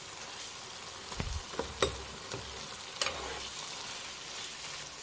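Chicken, mushroom and capsicum frying in a granite-coated non-stick pan while being stirred with a spatula: a steady sizzling hiss, with a few sharp taps and scrapes of the spatula against the pan in the middle of it.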